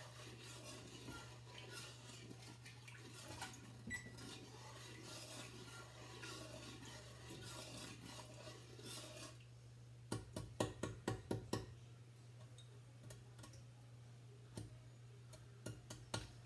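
A spoon stirring sugar and vinegar in a pot to dissolve the sugar, with a quick run of clinks against the pot about ten seconds in and a few more near the end. A steady low hum lies underneath.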